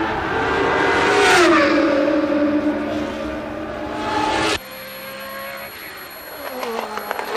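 Formula One race car engines at high revs, one car passing with its pitch dropping sharply about a second and a half in. About two-thirds of the way through the sound cuts off abruptly to quieter engine noise, and another car passes with a falling pitch near the end.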